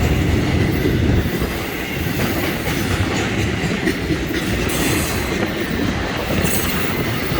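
Florida East Coast Railway freight cars rolling past on the main line, a steady rumble and clatter of wheels on rail, with brief faint high squeals from the wheels a few times.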